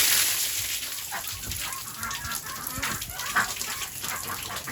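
Pooled rainwater spilling off the duck pen's roof cover as it is pushed up with a stick: a loud gush at the start, settling into splashing and dripping. Ducks give a few short calls.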